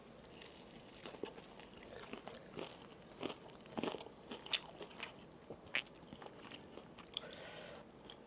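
A person chewing and biting food close to the microphone, with irregular sharp crunchy clicks of eating.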